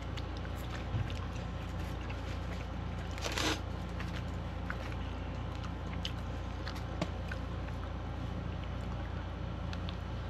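Close-up chewing of a Cheez-It cracker and crunchwrap: many small crunchy clicks and mouth sounds over a steady low hum. A brief rustle about three seconds in.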